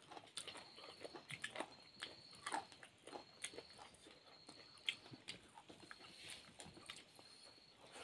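Close-up eating sounds: soft irregular chewing and lip-smacking clicks as food is bitten and chewed. A faint high-pitched steady tone comes and goes in the background.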